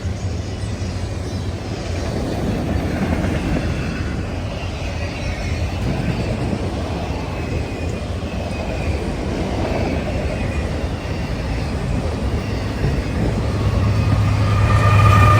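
Train rolling past: a steady low rumble of wheels on rail with faint wheel squeal. A louder high squealing tone comes in near the end.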